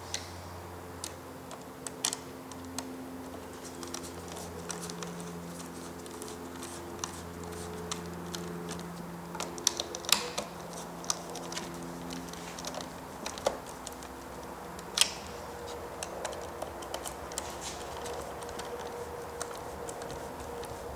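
Scattered sharp clicks and taps of small hard plastic parts being handled, irregular and spaced apart, over a faint low hum.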